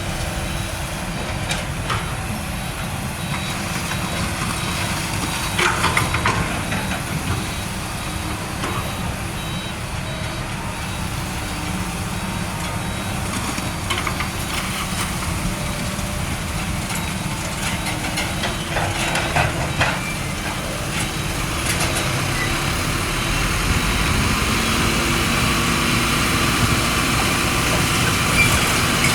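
Heavy diesel trucks running in a slow queue, a steady engine rumble broken by a few brief sharp sounds, growing louder near the end.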